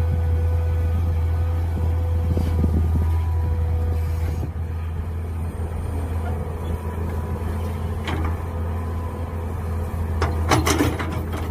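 Mini excavator engine running steadily under a steady hydraulic whine that stops about four seconds in, then a knock and, near the end, a quick cluster of metallic clanks from the working arm and bucket.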